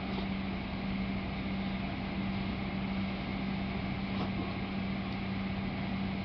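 Steady drone of ramp machinery running, with a constant low hum and a faint knock or two.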